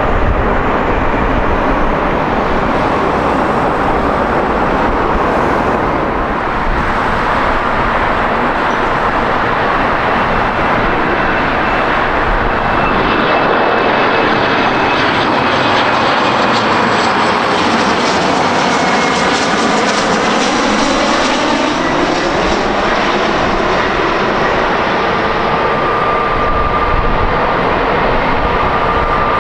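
Jet airliner passing close by: a loud, continuous engine rush whose tone sweeps as the aircraft goes past about halfway through, with a thin engine whine coming through near the end.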